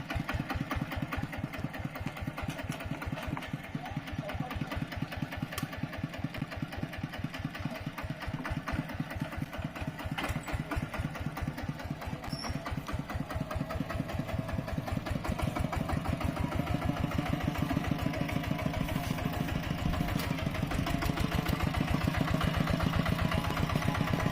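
Mini tractor's engine running with an even chugging beat of firing strokes. It grows steadily louder through the second half.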